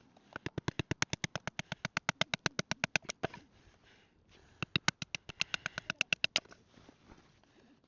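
Rapid, evenly spaced clicking, about ten clicks a second, in two runs: one of about three seconds, then after a short pause one of about two seconds.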